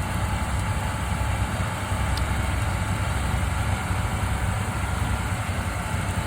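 Steady engine drone from a portable generator and a tractor running at a constant speed to power pumps draining a flooded pond.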